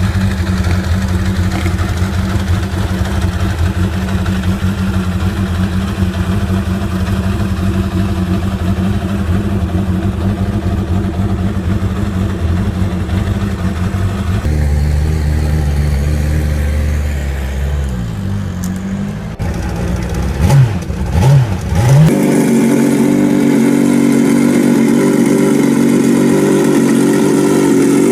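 Motorcycle engines running in a string of short clips: a steady idle, then a few quick throttle blips with the pitch swinging up and down about two-thirds through, then a steady, higher-pitched idle.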